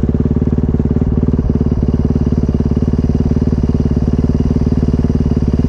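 Dirt bike engine running steadily at an even, idle-like speed close by, with a fast regular pulse.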